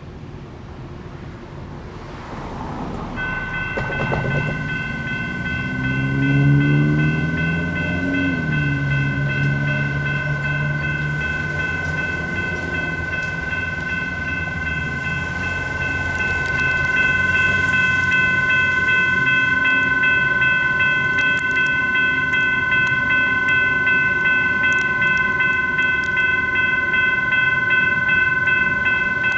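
US&S E-Bell electronic crossing bell starts ringing about three seconds in and keeps ringing steadily, over the engine of a passing road vehicle. The rumble of an approaching light rail train grows louder from about halfway through.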